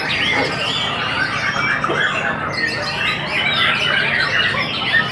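Many caged songbirds singing at once in a songbird contest, a dense, continuous chorus of overlapping chirps, trills and squawks.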